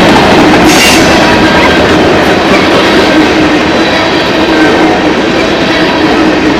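Train passing close by: the loud, steady rumble and rattle of its cars rolling over the rails.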